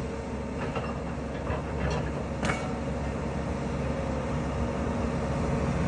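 Steady low engine rumble with a few faint knocks, such as heavy equipment working at a demolition site.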